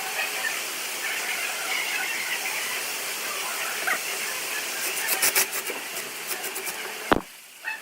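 Wood lathe work: a steady hiss of tool or abrasive on spinning wood, with scattered clicks about five seconds in and one sharp knock near the end, after which it goes quieter.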